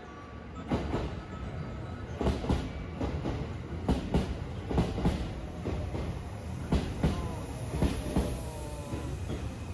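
Sunrise Express sleeper train, a 285 series electric multiple unit, pulling into the station. Its wheels clack over the rail joints in paired clicks every second or two over a low rumble, with a faint squeal in the second half as it slows.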